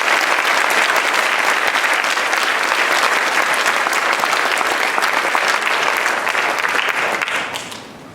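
Audience applauding in a large hall, steady for about seven seconds and then dying away near the end.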